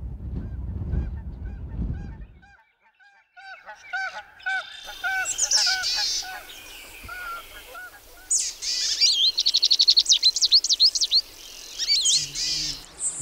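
A low rumbling noise that dies away about two seconds in, then geese honking over and over, joined by small songbirds chirping and trilling rapidly, loudest in the second half.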